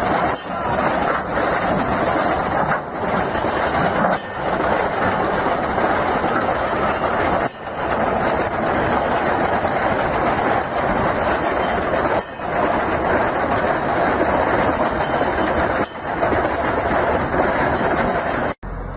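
Loud, steady machinery noise with brief dips every few seconds; it cuts off abruptly near the end.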